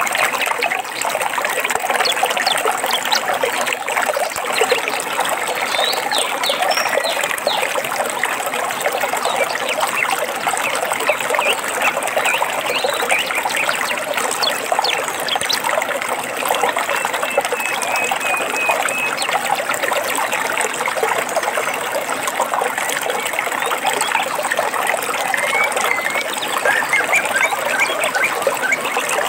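Water trickling and babbling steadily, like a small stream, with a few short bird chirps now and then, including a brief run of quick repeated notes a little past the middle.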